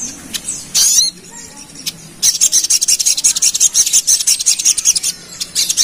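Crimson sunbird (sogon) singing a fast, high-pitched rattling chatter. A short sharp call comes about a second in, then a dense run of rapid notes from about two seconds in until shortly before the end.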